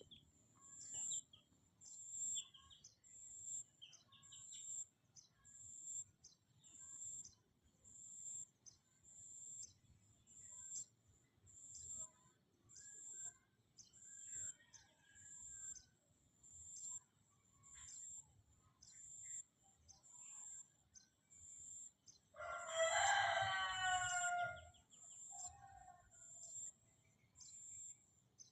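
A rooster crows once, loud and about two seconds long, near the end. Under it, a high chirp repeats about once a second throughout, with faint scattered bird calls.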